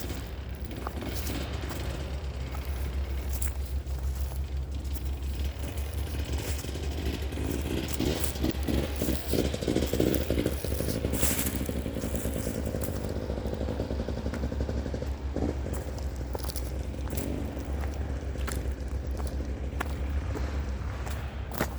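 Dirt bike engine running, growing louder for a few seconds about eight seconds in, with footsteps and rustling on the trail throughout.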